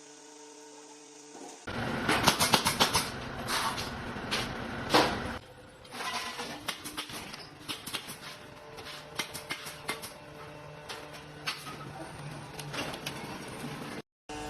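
Vertical scrap-metal baling press at work: a steady machine hum, joined about two seconds in by a run of metal clanks, knocks and rattles as the scrap is pressed, thinning out later.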